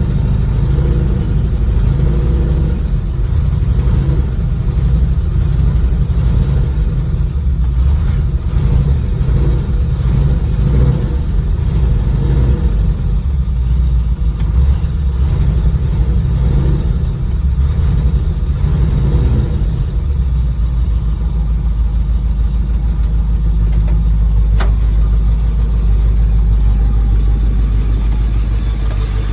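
1972 Ford Bronco engine idling steadily, still warming up after a cold start.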